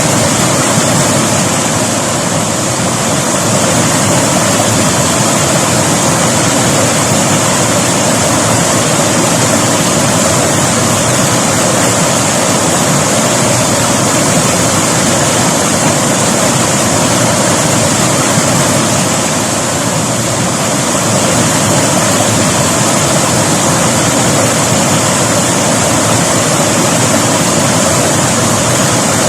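River water rushing and splashing in a steady, loud flow, swelling slightly now and then.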